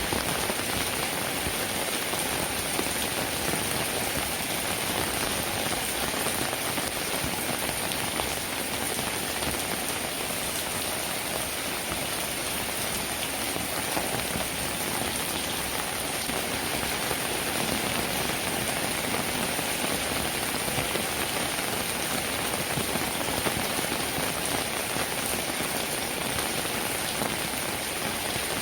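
Steady, heavy rainfall: an even, unbroken hiss of rain with the sound of many drops landing.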